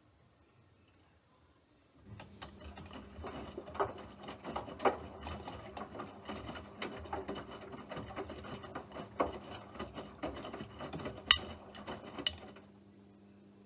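A small machine starts about two seconds in and runs with a steady hum and dense, irregular mechanical clicking, with two sharp louder clicks near the end. The clicking then stops while a faint hum continues.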